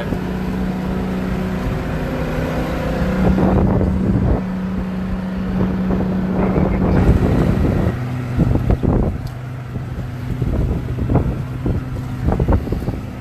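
Tow boat's engine running steadily under tow, its pitch dropping about eight seconds in as the throttle comes back, with wind buffeting the microphone.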